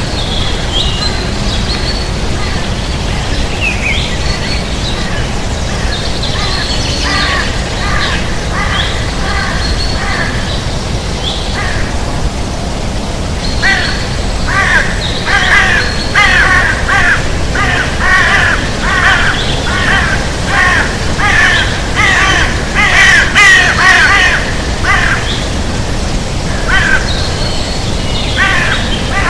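Birds calling over a steady low rumble. A few scattered calls come first, then about halfway through a long run of loud, repeated calls about one and a half a second, which thins out near the end.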